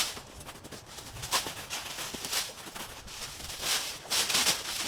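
Irregular rustling and crunching of brush and debris being handled: several short bursts spread unevenly, a little louder near the end.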